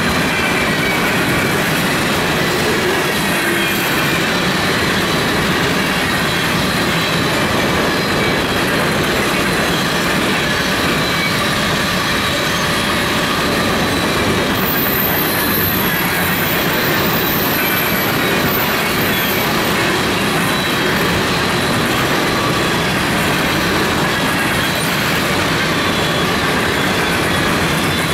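Coal hopper cars of a long freight train rolling past close by: a steady noise of steel wheels on rail, with faint high squealing from the wheels.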